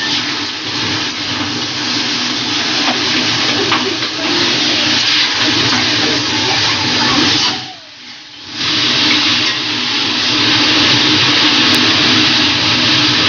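Chicken, onions and capsicum sizzling in hot oil in an aluminium kadai while being stir-fried with a spatula: a loud, steady hiss with the spatula scraping the pan now and then. The sizzle drops away for about a second a little past the middle.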